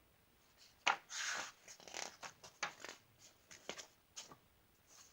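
Paper rustling and a few soft clicks as a picture-book page is turned and the book is handled.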